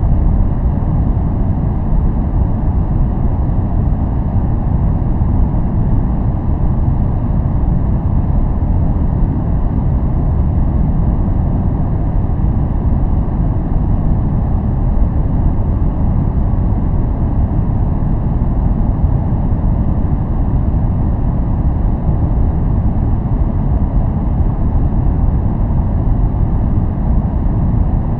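Steady noise track of the kind sold as white noise for focusing, running unchanged: a deep, even rush, heavy in the low end, with little hiss on top.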